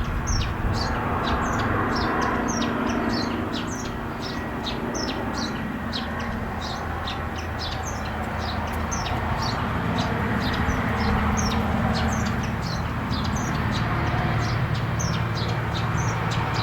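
Small birds chirping in quick, short repeated notes, several a second, over a steady wash of ocean surf that swells and eases slowly.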